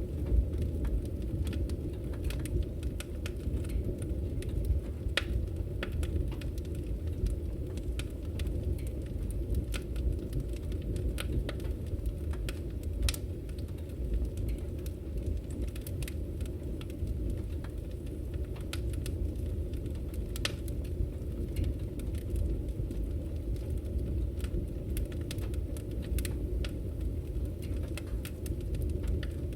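Wood fire crackling in a fireplace: frequent irregular snaps and pops over a steady low rumble of the flames.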